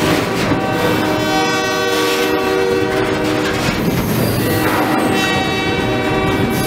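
Double-stack container train rolling past close by, a steady rumble with the rattle and clickety-clack of the well cars' wheels. Over it a multi-chime train horn sounds twice in long blasts, the second starting about four and a half seconds in.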